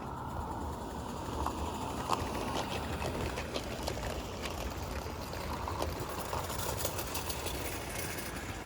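Small live-steam garden train with tinplate wagons running over the rails: a steady rumble with scattered metallic clicks of the wheels over the track, one sharper click about two seconds in.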